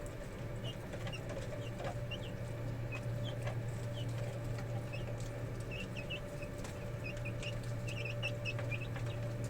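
Chickens calling in short, high chirps scattered through, over a steady low hum.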